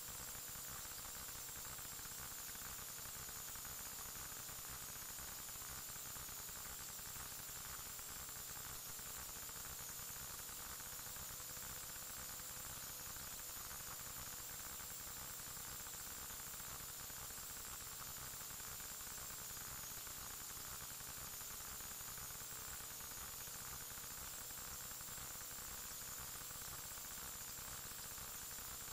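Steady electronic static hiss with a faint hum and a thin, slowly wavering whine: the recording device's own noise, with no other sound.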